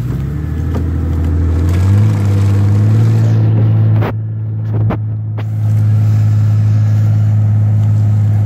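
Off-road SUV engine revving up about two seconds in and then held at high, steady revs as the vehicle, stuck in mud, is pulled on a winch line. The revs ease briefly around the middle, where there are two sharp knocks.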